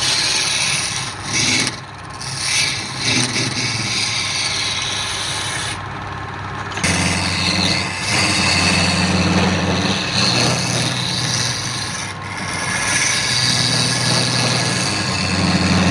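Wood being rubbed with an abrasive in uneven strokes, a rough scratchy hiss with short breaks. About seven seconds in, a machine motor's steady low hum rises under it.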